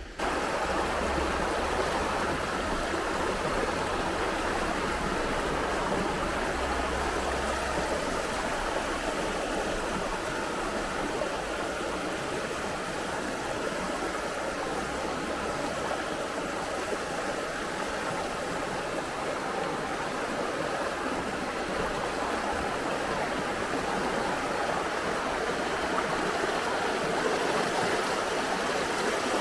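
Fast river water rushing over rocky cascades, a steady full rush that starts abruptly and does not let up.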